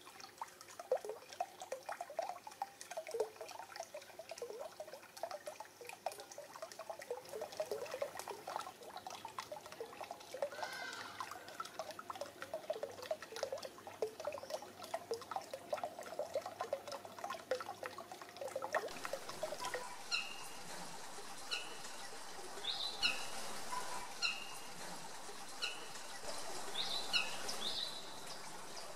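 Birds calling: many short, low chirping notes. From about two-thirds of the way in, a bird repeats a short high note about once a second.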